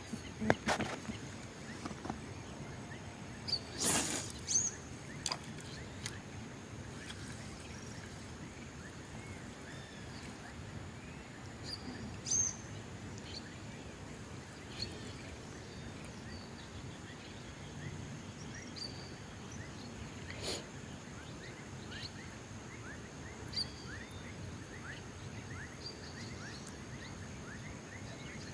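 Scattered short bird calls and chirps over a steady background hiss and a thin high tone, with a few sharp knocks, the loudest about four seconds in.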